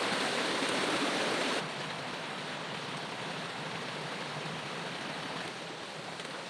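River water flowing over rocks, a steady rushing wash. It drops suddenly to a quieter flow about one and a half seconds in.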